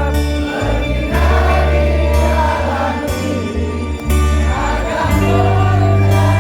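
Live rock band playing a slow ballad with steady bass notes while a large crowd sings the melody along like a choir.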